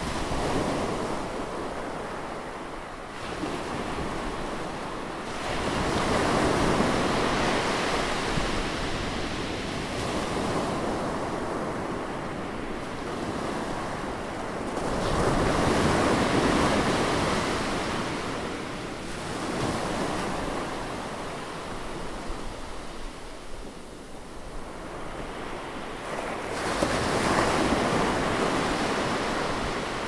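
Ocean surf breaking against rocky shoreline boulders: a continuous wash of white water that swells into three big crashes, about six seconds in, halfway through and near the end, with smaller surges between them.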